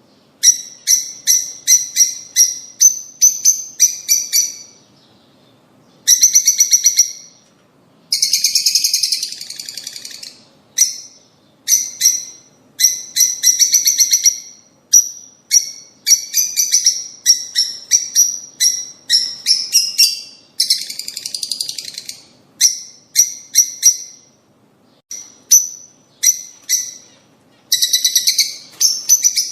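Lovebirds calling: runs of rapid, shrill, high-pitched chirps broken by short pauses, with a few bursts of harsher, denser chatter.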